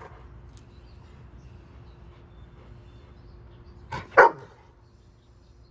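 A dog barks once, sharply, about four seconds in, with a softer sound just before it.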